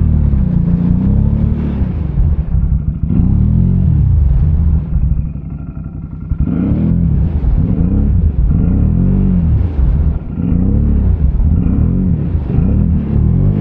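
ATV engine revving up and down repeatedly under load. It eases off for a moment about five seconds in, then comes back in quick revs about once a second.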